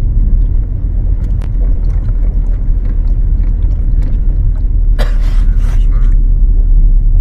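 2012 Ford Focus driving, heard from inside the cabin as a steady low road rumble while the steering is swung from side to side to rock the body and bring out a chassis creak. A short, harsh noise comes through about five seconds in.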